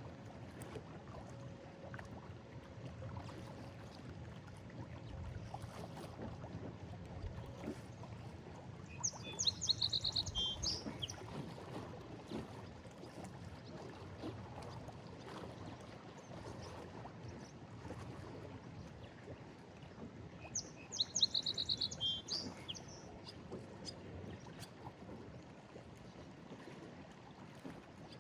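Lake Erie waves sloshing and lapping against a stone break wall, a steady wash of water. A songbird sings a short burst of rapid high notes twice, about a third of the way in and again near three-quarters.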